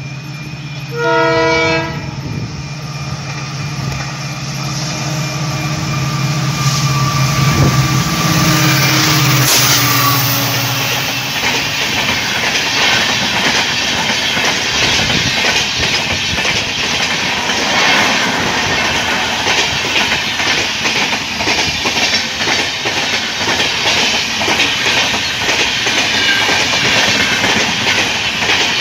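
An electric locomotive sounds its multi-tone horn in one short loud blast about a second in, then its steady hum grows louder as it comes on. From about a third of the way through, a fast passenger train runs close past: a steady rumble with rapid clickety-clack of the coach wheels over the rail joints.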